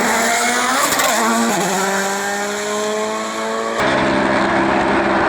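Rally car engine accelerating hard, its pitch climbing, dropping briefly at a gear change about a second in, then climbing again. About four seconds in the sound changes abruptly to another engine note.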